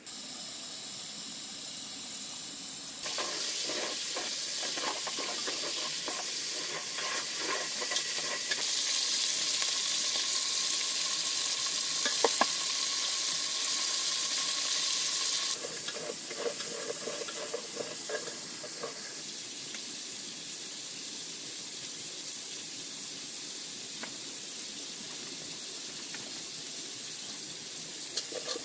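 Food sizzling in a hot pan or wok while being stirred, a steady frying hiss with scattered clicks. It gets louder about 3 s in and again around 9 s, then drops back a few seconds past the middle.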